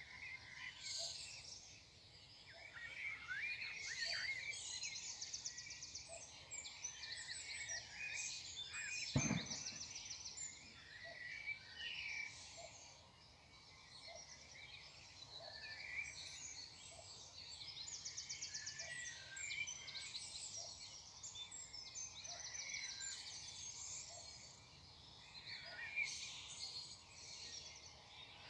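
Morning chorus of several songbirds singing together: overlapping chirps, short whistles and fast rattling trills. A single sharp knock sounds about nine seconds in.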